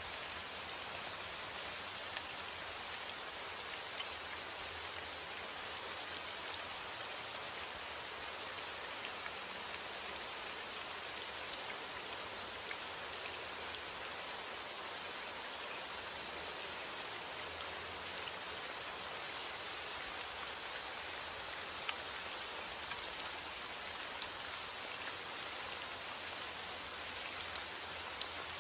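Steady rain falling, a continuous hiss with scattered individual drop ticks; heavy rain.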